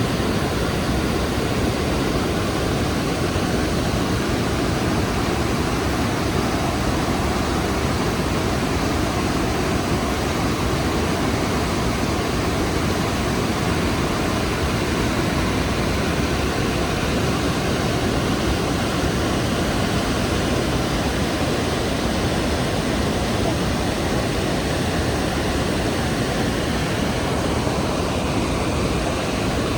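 Rhine Falls' cascading water, heard up close as a loud, steady rush with no let-up.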